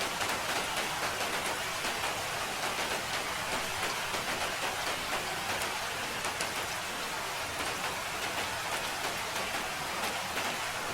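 Steady rain falling, an even hiss with many small drop ticks spread through it.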